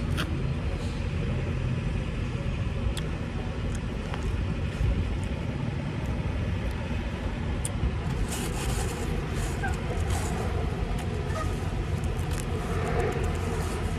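Semi truck running, a steady low rumble of engine and road noise, with a few light ticks and rattles about eight to ten seconds in.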